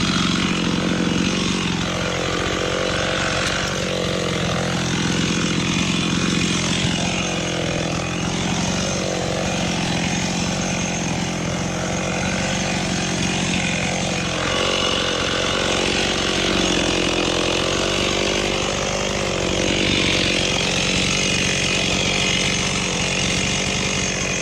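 Two-stroke chainsaw running steadily while cutting eucalyptus wood, its engine note sagging and recovering as the bar works through the cut.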